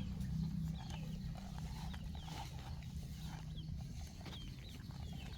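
Short high chirps, likely from a small bird, repeating about every half second over a low steady hum.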